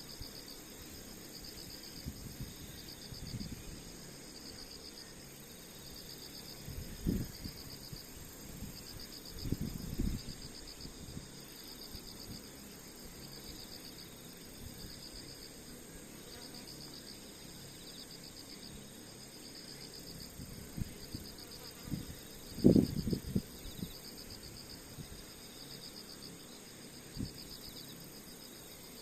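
Insects chirping in the grass: repeated high trills of rapid pulses, about one every second and a half. A few low thumps stand out, the loudest about two-thirds of the way through.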